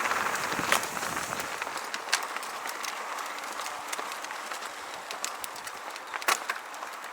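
Bicycle rolling over a rough mountain dirt trail: tyre and gravel noise with scattered sharp clicks and rattles, heavier in the first second and a half.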